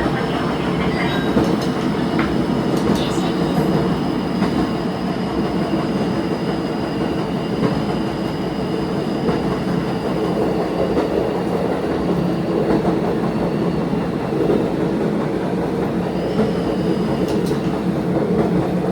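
Diesel railcar running along the line, heard from inside at the front: a steady engine and running drone with thin high tones over it and a few clicks from the rails.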